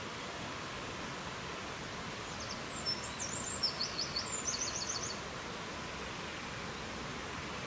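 A songbird sings one short phrase of quick, high chirps and trills over a steady rushing noise. The song starts about two and a half seconds in and lasts under three seconds.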